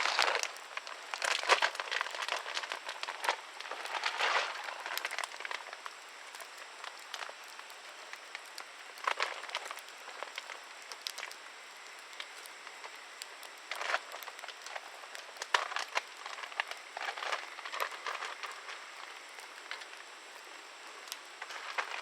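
Wood campfire crackling, with irregular snaps and pops over a soft steady hiss; the snaps come thickest in the first few seconds and again in the second half.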